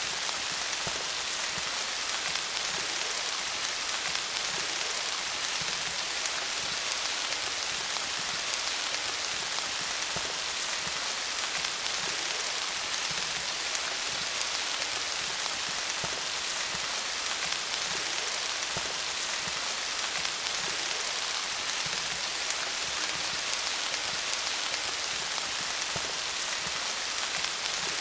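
Steady rain pattering on leaves, a dense hiss of many small drop impacts.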